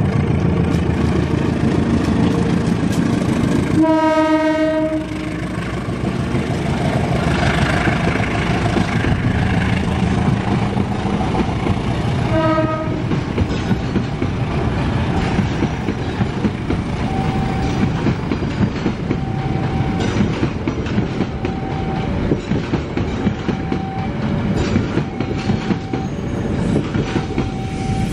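KAI CC 201 (GE U20C) diesel-electric locomotive running past with its diesel engine working, sounding its horn in a blast of about a second after a few seconds and a short second toot about midway. Its passenger coaches then rumble and clatter over the rail joints, while a level-crossing warning bell chimes two alternating tones over and over through the second half.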